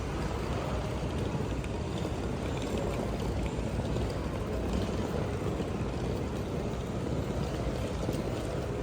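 Steady cabin noise of an airliner in flight: an even drone of engines and rushing air heard from inside the cabin, strongest in the low end.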